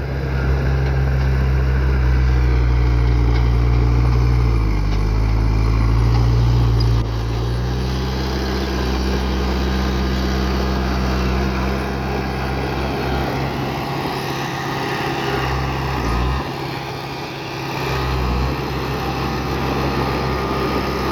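Heavy earthmoving machine's diesel engine running under load. Its pitch dips briefly about four and a half seconds in, it gets quieter about seven seconds in, and it eases off briefly again around sixteen seconds in.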